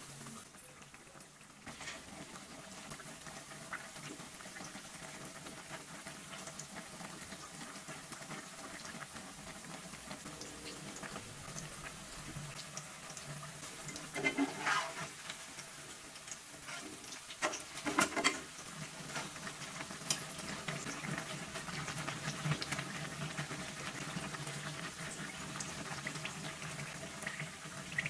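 Fu yung hai egg patty frying in shallow oil in a wok, a steady crackling sizzle. About halfway through, a spatula and wire strainer scrape and knock against the wok a few times as the patty is turned.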